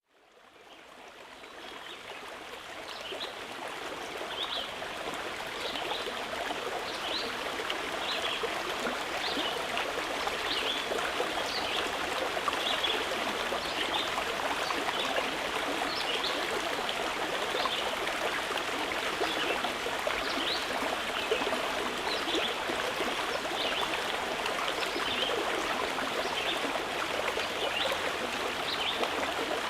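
A stream flowing steadily, fading in over the first few seconds, with short high-pitched notes recurring about once a second above the water's rush.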